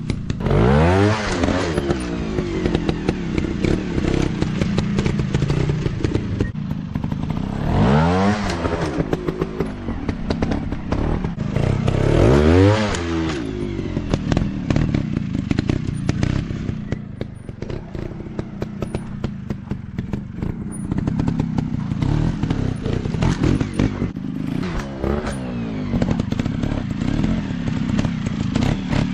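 Small 150 cc dirt bike engines revving hard and easing off again and again, with sharp rises and falls in pitch about a second in, around eight seconds and around twelve seconds, and running steadier between, over a constant crackle of clicks and clatter.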